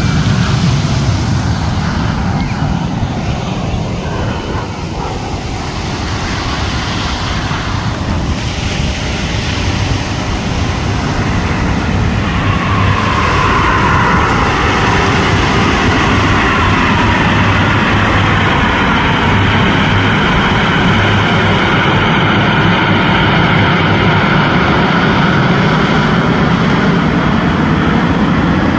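Aermacchi MB-339 jet trainers' turbojet engines, a continuous jet noise that grows louder about twelve seconds in, with a whine that slides down in pitch as the aircraft pass.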